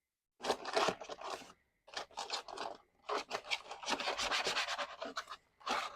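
Cardboard packaging scraping and rubbing in a string of irregular bursts as it is worked loose from a box.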